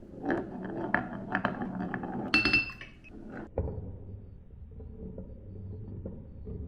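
Marbles clicking and clattering down a marble run track, with one brighter ringing clink about two and a half seconds in. After that it goes quieter, leaving a low steady hum.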